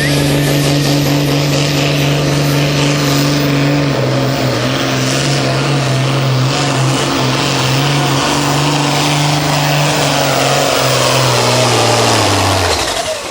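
Turbocharged diesel pulling tractor under full load dragging the sled, engine at full throttle with a high turbo whistle climbing in pitch over the first few seconds. The engine note drops about four seconds in and sags further as it bogs down, then cuts off near the end as the pull ends.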